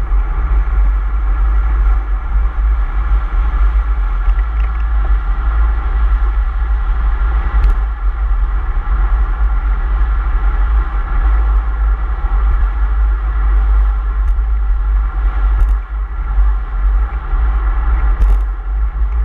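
Steady road-travel noise from a moving vehicle: a heavy low rumble under a constant drone, with a few sharp clicks.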